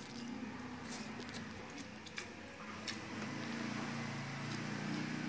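A man chewing a mouthful of rice and fish eaten by hand, with a few faint mouth clicks, over a low steady hum that grows louder from about halfway through.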